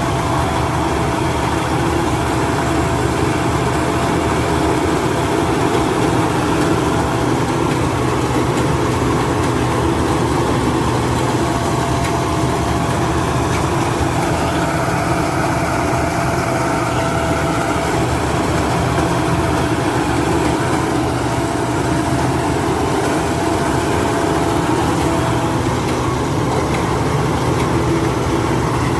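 Rice combine harvester running steadily: a loud, constant engine drone with a few steady humming tones.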